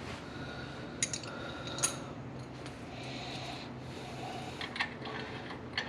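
Small metal parts being handled, with a few light clicks and rubbing: two sharp clicks about one and two seconds in and a short run of light clicks near the end.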